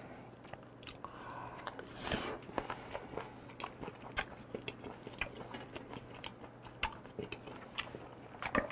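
Close-up chewing of raw beef and chopped raw octopus tangtangi with abalone: irregular small mouth clicks and smacks, with a short louder burst near the end.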